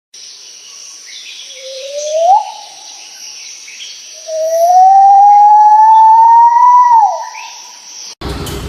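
A bird giving two whistled calls that rise in pitch, a short one and then a long, loud one that climbs slowly and drops away at the end, over a steady high hiss. About half a second before the end a different, louder sound cuts in.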